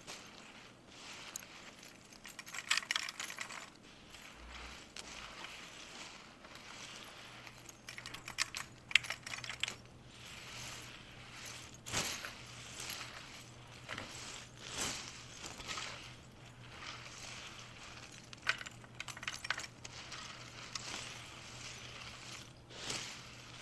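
Irregular light clicking, tapping and rustling of small hard objects being handled, over a faint low hum.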